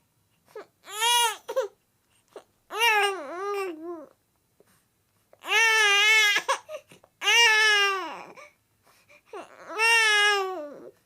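Baby-like crying: five high-pitched wailing cries, each a second or so long with a rise-and-fall in pitch, separated by short silent gaps.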